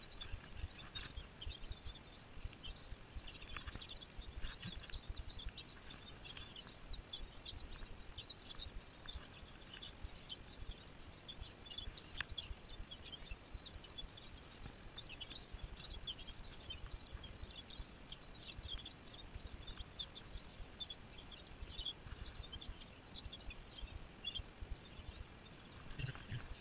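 Birds chirping and singing, many short calls in a steady chorus, faint, over a low rumble.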